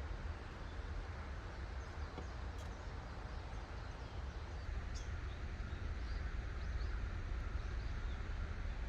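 Outdoor campsite ambience: a steady low rumble with a few faint bird chirps about five to six seconds in.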